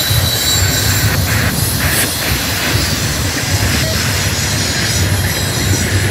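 Loaded double-stack container cars of a freight train rolling past, a steady rumble of steel wheels on the rails with a high-pitched squeal from the wheels on the curve.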